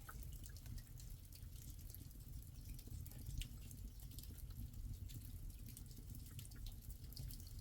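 Water dripping in irregular single drops over a low steady rumble.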